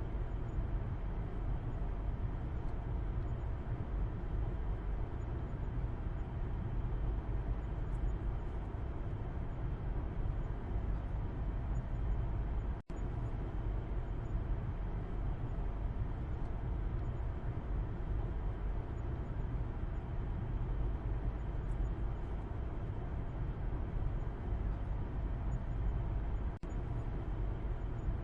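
Steady low road and engine rumble inside a moving car's cabin, heard from the back seat. The sound cuts out for an instant twice, about halfway through and near the end.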